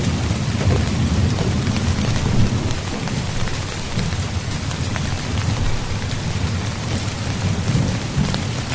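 Steady rain falling on a tent's fabric: a dense, even patter with a low rumble underneath and small drop ticks on top.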